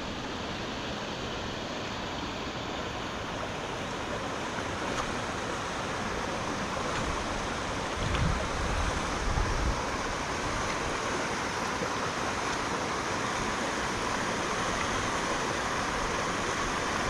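Steady rush of a fast-flowing river in full spate, swollen by heavy rain, with brief low buffeting about eight seconds in.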